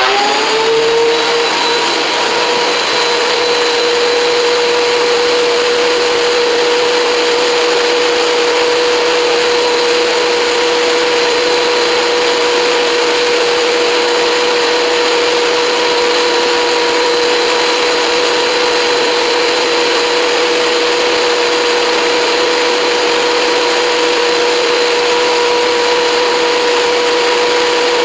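Corded electric woodworking machine's motor reaching full speed in the first moment, then running steadily with a constant whine.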